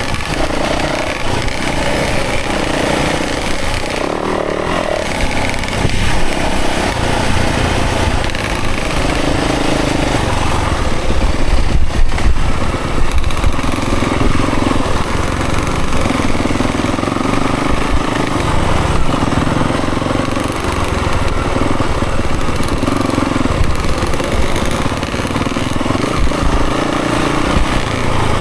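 Dirt bike engine revving up and falling back again and again while being ridden hard along a trail.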